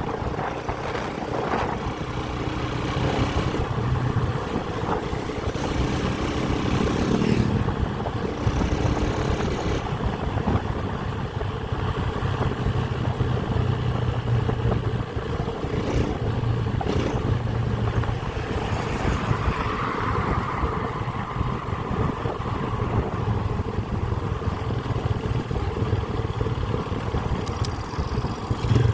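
Motorcycle engine running while being ridden, its pitch shifting a few times with the throttle over a noisy road rush.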